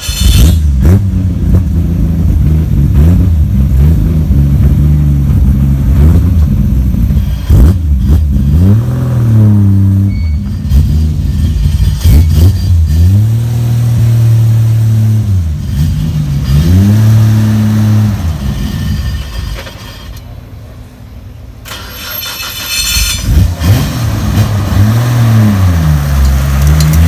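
A car engine revved hard in repeated blips, its pitch climbing and falling back each time, with a few sharp cracks among the revs. It drops back briefly about twenty seconds in, then revs again.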